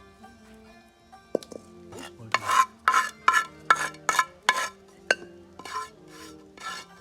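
A spoon stirring and scraping food in a cooking pot: a quick run of scraping strokes, about three a second, starting a little over two seconds in, with a few sharp clinks of the spoon against the pot.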